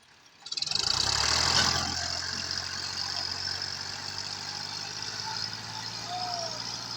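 Tractor diesel engine running steadily. It comes in abruptly about half a second in and is loudest around the first second and a half.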